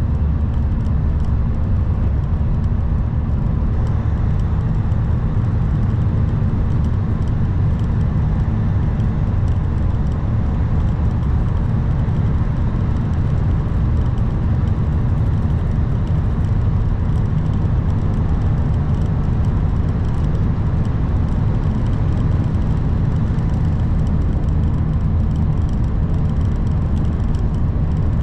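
2021 Kenworth W900 semi truck under way: a steady, even drone of the diesel engine and road noise.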